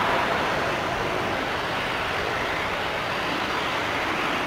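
Jet airliner engine noise, a steady roar that eases slightly as the aircraft moves away.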